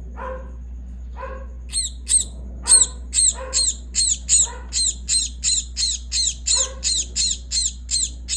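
Myna bird giving a run of sharp, harsh calls, about two a second, which start about two seconds in and keep going, after a few lower calls.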